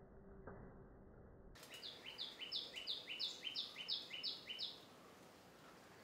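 A bird calling a rapid run of about sixteen short, clear notes, alternating between a high and a lower pitch, for about three seconds, starting a little over a second in.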